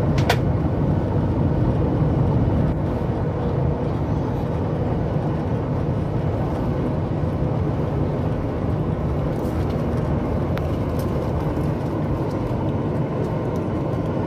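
Steady low cabin rumble of a Boeing 737 MAX 8 on the ground with its CFM LEAP-1B engines running, the noise easing slightly a few seconds in. A sharp click right at the start.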